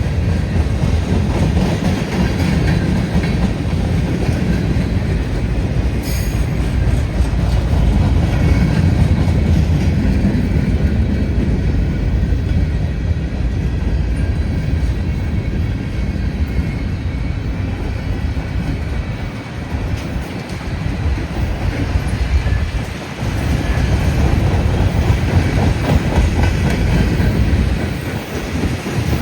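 Norfolk Southern freight train passing, its cars rolling by in a continuous low rumble that dips briefly twice in the later part.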